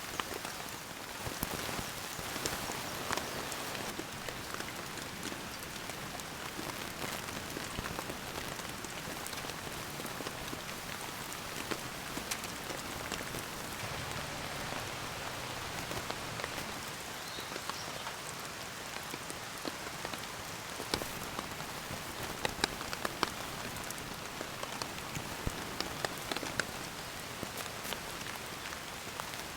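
Steady rain falling, with many separate drops tapping sharply close to the microphone over a continuous hiss.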